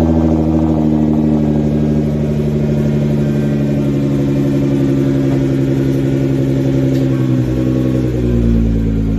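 Nissan GT-R R35's twin-turbo V6 running at idle through the exhaust, its pitch easing slowly down and then dropping a step about eight seconds in.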